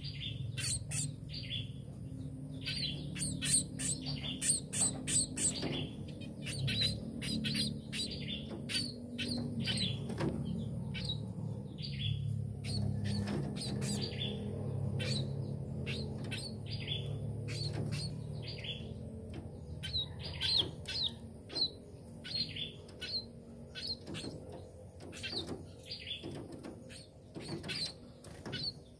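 Burung pipit, small finch-like songbirds, chirping over and over in short, high calls, several a second at times, thinning out a little near the end. A steady low hum runs underneath.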